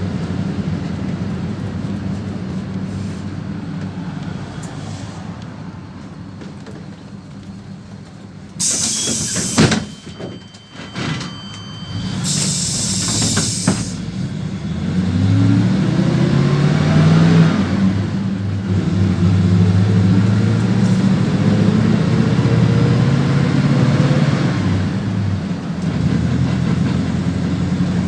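PAZ-32054 bus: the engine dies away as the bus slows, then two sharp hisses of released compressed air come about a third and half of the way through. After that the engine revs up in rising steps as the bus pulls away through the gears.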